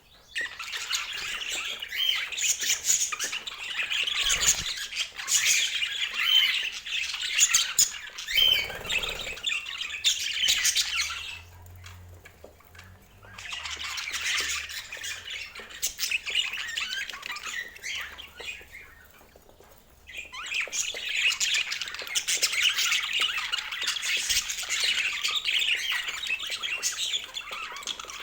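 Pet budgerigars chattering, a dense, busy stream of high calls that dies down briefly twice before picking up again.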